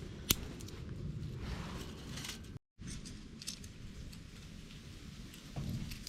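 Small fire of dry grass and twigs burning in a titanium pocket stove, crackling with scattered sharp snaps, one clear snap just after the start, over a steady low rumble.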